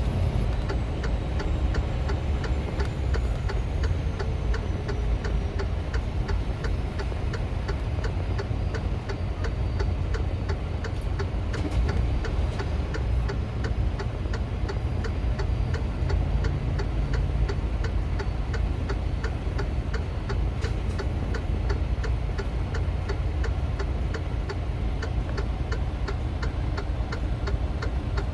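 Inside a semi-truck's cab: the diesel engine's steady low rumble with the turn signal ticking evenly.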